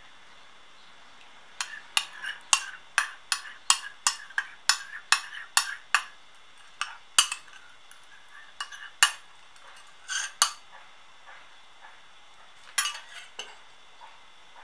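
A spoon clinking against a bowl again and again as a thick mayonnaise dressing is spooned and scraped out over the salad. The clinks come about twice a second from a second and a half in to about six seconds, then come scattered.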